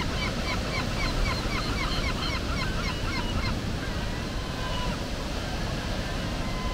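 A bird calling in a rapid series of short, hooked notes, about three a second, for the first three seconds or so, over a steady rushing background noise.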